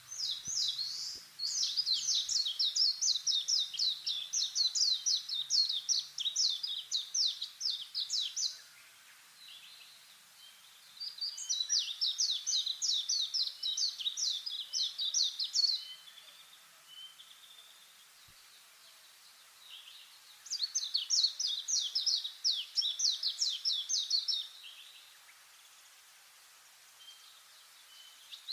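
A small songbird singing in three bouts of fast, high, evenly repeated notes. Each bout lasts several seconds, with pauses of a few seconds between them.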